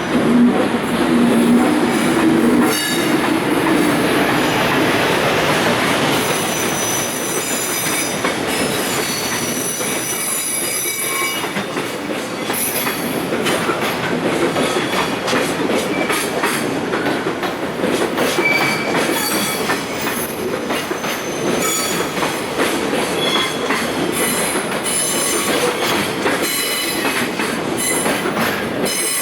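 Container freight train hauled by an electric locomotive rolling past as it slows into a station: steady rumble of wheels on the rails, with short high-pitched wheel and brake squeals coming and going. A low steady hum sounds in the first few seconds.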